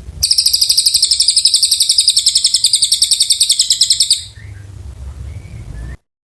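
Cililin bird singing a long, very fast, high-pitched trill, the 'gacor panjang' song used as masteran for magpie-robins; the trill stops after about four seconds, leaving a faint low rumble before the sound cuts off.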